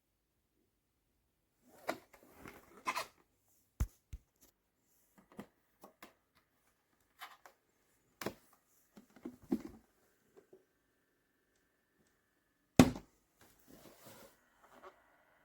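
Objects being handled: scattered knocks, taps and rustling, with one loud knock about 13 seconds in. A faint steady high hum starts near the end.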